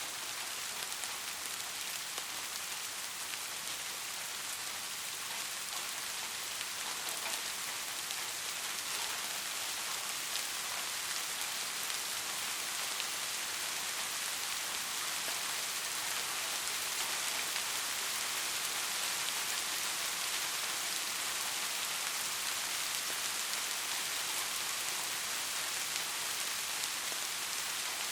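Steady heavy rain: a dense, even hiss with a fine patter of drops.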